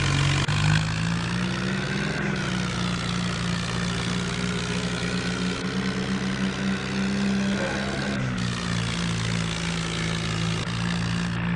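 Tractor engine running steadily with a constant drone. Its pitch dips briefly about eight seconds in.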